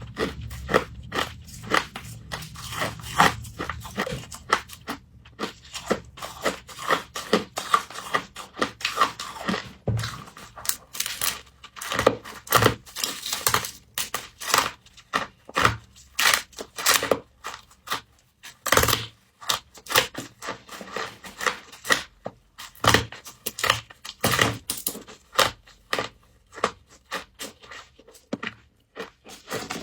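Frost being bitten and chewed: many irregular crisp crunches and crackles following one another throughout.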